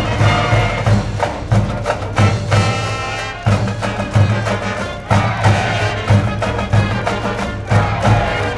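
High school brass band playing a baseball cheering tune, brass over a steady bass drum beat.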